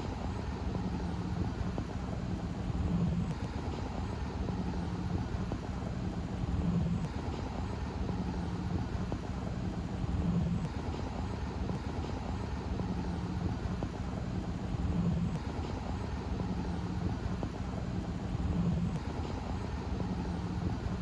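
Steady low engine rumble with some wind noise, swelling regularly about every four seconds.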